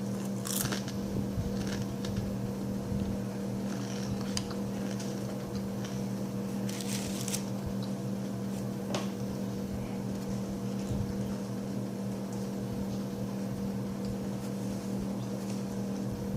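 A steady low electrical hum, with a few brief crunches of a kettle-style potato crisp being bitten and chewed.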